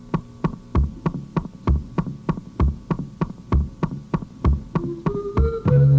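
Rock band's drum kit playing a steady beat alone, a low kick-drum thump about once a second with sharper strikes about three times a second. Near the end a run of rising notes climbs step by step, and the full band comes in loud just before the end.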